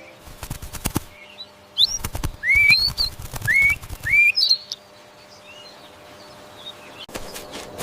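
A bird calling: a run of about five short, rising whistled chirps, preceded by a burst of quick rustling strokes like wing flaps.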